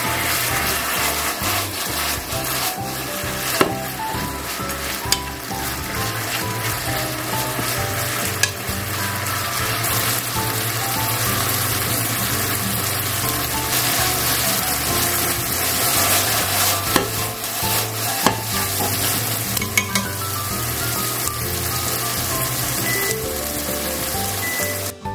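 Chicken tenderloin pieces sizzling steadily in a frying pan as a sweet-spicy soy and gochujang sauce cooks down into a glaze. The pieces are stirred with wooden chopsticks, which give a few sharp clicks against the pan.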